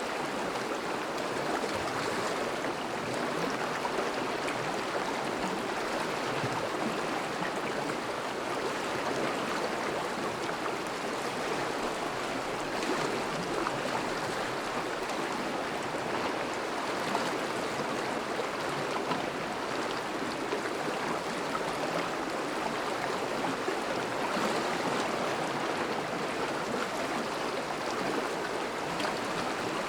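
Thawing river flowing steadily, a continuous rushing of water without breaks.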